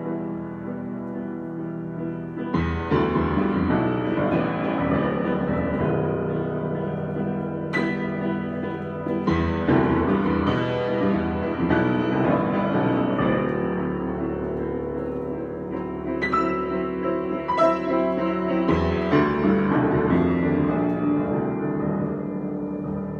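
Solo piano improvisation: chords and melody notes struck and left ringing, growing fuller and louder about two and a half seconds in.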